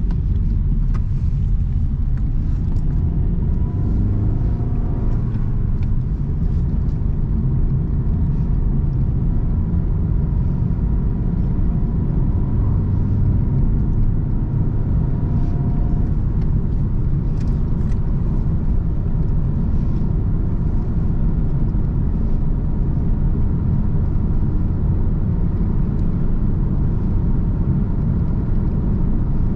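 Car on the move: a steady low rumble of engine and road noise, with the engine pitch rising for a couple of seconds a few seconds in.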